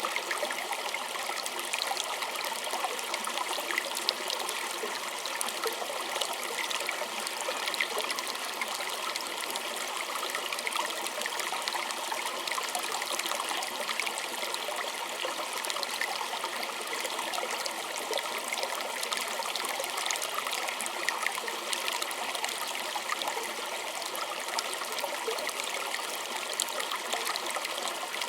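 Small stream running over stones, a steady trickling and babbling with light splashes.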